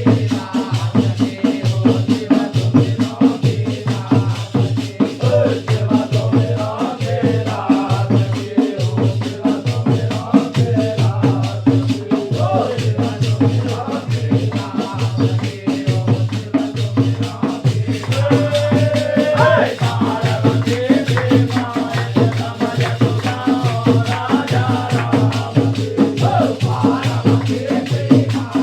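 Holi faag folk music: voices singing a melody over fast, dense percussion and a steady low drone.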